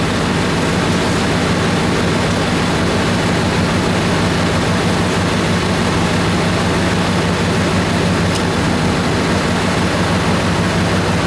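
Dodge Ram 2500's Hemi V8 engine idling steadily in neutral.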